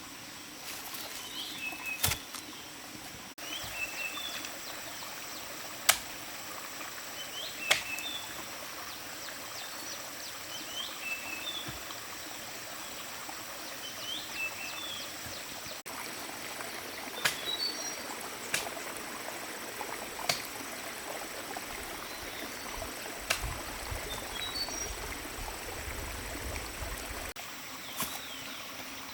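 A bird repeating a short chirping call about every two seconds over a steady background hiss, with several sharp clicks or snaps scattered through it and a low rumble near the end.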